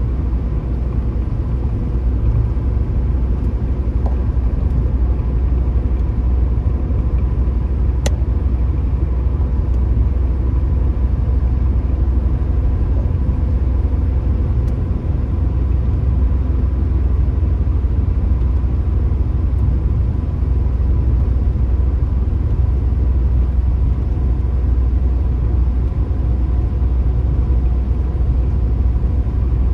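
Car driving at a steady pace: a constant low rumble of engine and road noise, with a faint steady whine above it. One sharp click about eight seconds in.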